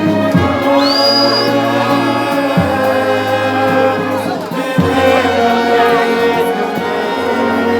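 Brass band playing held chords over a low bass line, with a short high whistle-like glide about a second in.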